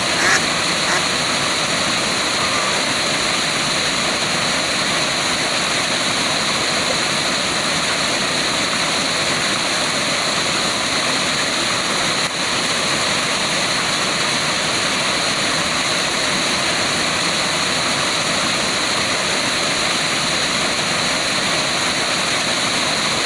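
Waterfall rushing as a steady, unbroken hiss of falling water.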